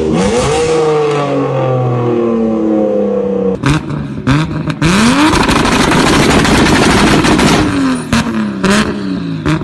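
Loud aftermarket performance-car exhaust revving. The engine note falls away over the first few seconds, then sharp crackling pops are followed by another hard rev that rises and falls, with more pops near the end.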